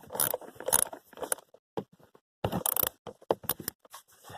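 Metal hand tools clinking and scraping in irregular short clicks and rattles as a socket wrench is fitted to and worked on the blower motor's mounting bolts.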